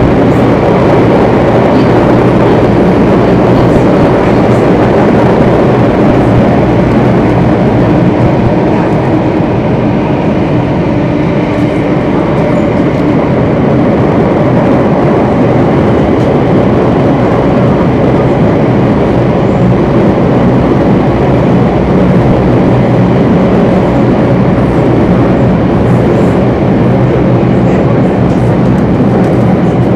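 Singapore MRT Circle Line train running between stations in the tunnel: a loud, steady rumble with a constant hum of several held tones.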